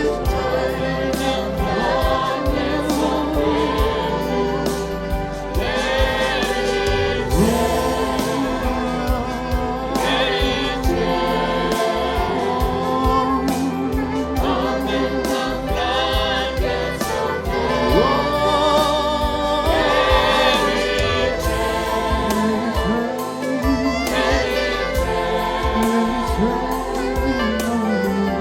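Gospel worship song: a choir singing without clear words over a band with a steady bass and beat.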